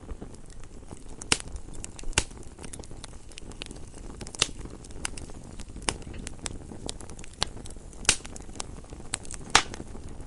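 Wood campfire crackling: irregular sharp pops and snaps over a low, steady rumble of burning wood, with the loudest snaps about a second and a half in, near two seconds, near eight seconds and near nine and a half seconds.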